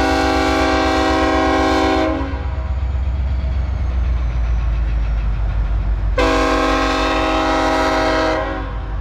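Locomotive air horn blowing two long blasts, the first cutting off about two seconds in and the second starting about six seconds in and stopping near the end, really loud. Underneath runs the steady low rumble of the passing freight train.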